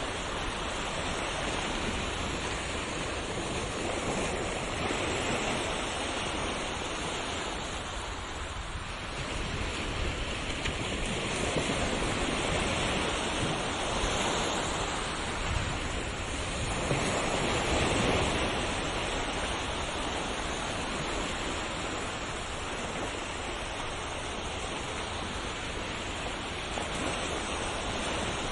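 Ocean surf: a continuous wash of waves with a swell every few seconds, the strongest wave rolling in a little past halfway.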